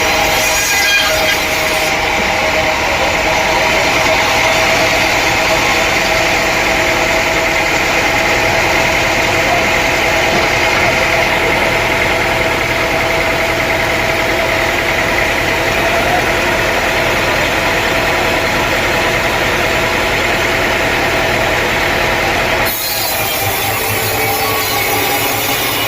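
Sawmill saw running steadily through a teak log, a continuous mechanical whine over a noisy rush. The sound changes abruptly near the end.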